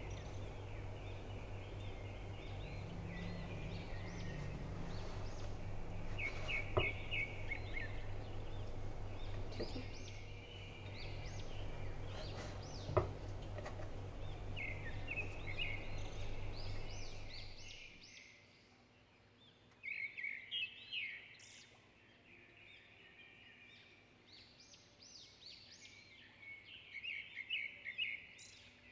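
Small birds chirping repeatedly in the background over a steady low hum that fades out about two-thirds of the way through, with two sharp knocks along the way.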